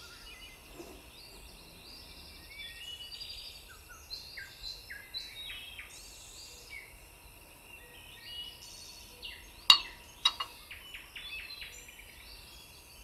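Faint birdsong: many short chirps and gliding notes throughout. Two sharp clicks come about ten seconds in, followed by a quick run of short notes.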